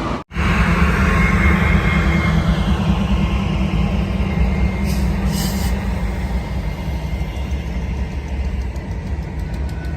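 Train rolling past with a steady low rumble, and a hiss that fades away over the first few seconds.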